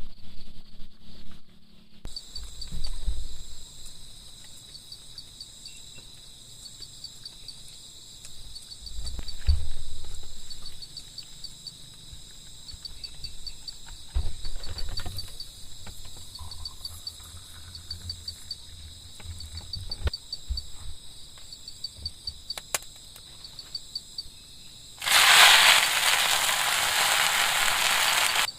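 Insects, crickets by the sound, chirping steadily in a fast pulsing trill, with a few dull low thumps. Near the end a loud steady hiss sets in and covers it.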